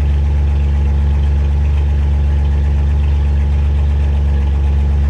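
Engine idling steadily with a deep, even hum.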